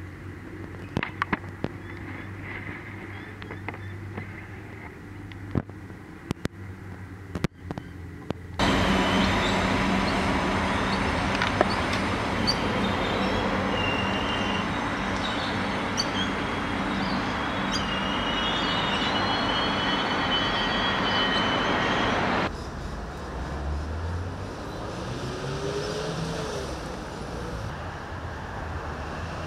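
Adelaide Metro 3000-class diesel railcars. First a low steady hum with scattered clicks. Then, about nine seconds in, a loud rumble of a railcar running through a station with high-pitched metallic squeals. After a sudden cut, a quieter approaching railcar whose engine note rises in pitch.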